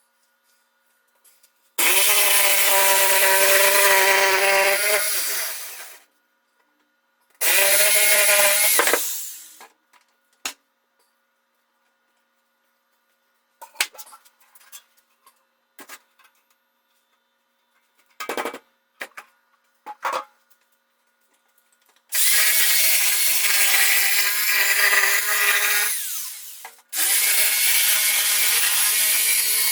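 A power saw cutting in four runs of a few seconds each, its pitch dropping as it winds down at the end of each run. Scattered knocks and clicks fall in the pauses between runs.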